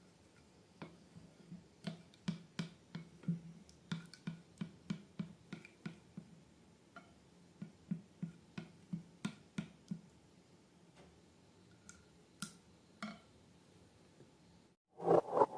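Slime being worked by hand, giving small irregular sticky clicks and pops a few times a second. Near the end they turn into a louder, quicker run of even squelching pops.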